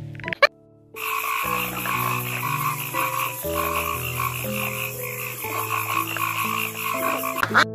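Frogs croaking in a dense, steady, pulsing chorus that starts about a second in after a brief silence. Soft background music of slow held notes plays underneath.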